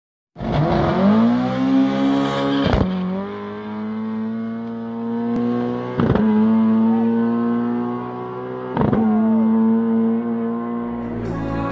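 Street drag-race cars, a 20-valve turbo Mk1 and a Honda K20-powered car, launching and accelerating hard at full throttle. The engine note climbs through the gears, with three upshifts each marked by a sharp crack.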